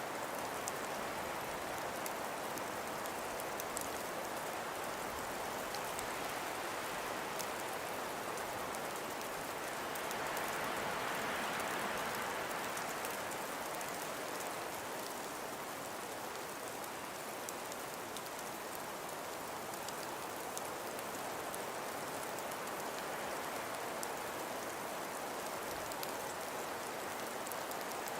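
Steady hiss of wind and falling snow, with scattered faint fine ticks. It swells gently for a few seconds about ten seconds in.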